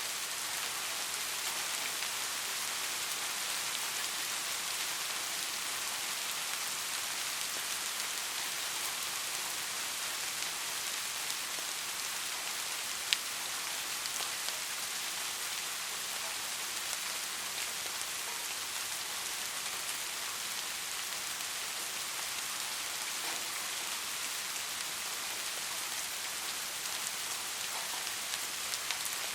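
Steady rain falling on a street, an even hiss of drops, with one sharper drop ticking about halfway through.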